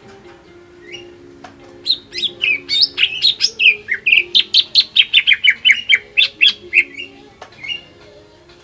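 Green leafbird (cucak ijo) singing a fast, loud run of sharp chirps, about five a second, most notes sliding downward. The run starts about two seconds in and stops near the end, over faint steady low tones.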